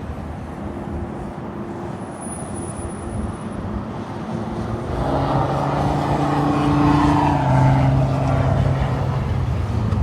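Jet airliner landing: engine noise with a steady hum and whine, growing louder over the first half and staying loud.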